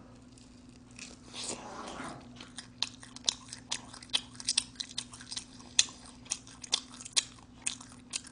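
A person chewing a mouthful of smoked chicken close to the microphone: a run of sharp mouth clicks, about two a second.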